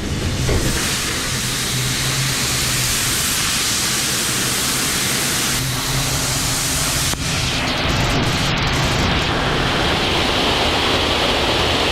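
Water jets spraying a pickup truck's body in a leak-test booth: a loud, steady hiss of water, with a low hum underneath that drops away about seven seconds in. The test shows no water getting into the cab.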